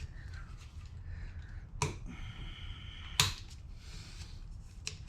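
Two sharp clicks of hand tools being handled on the workbench, the second about 3 s in and louder, with a faint high whine between them over a low steady hum.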